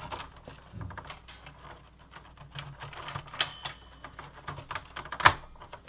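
Plastic and metal parts of a Dell OptiPlex 780 desktop clicking and rattling as a component is worked into a slot in the case, with one louder sharp click near the end.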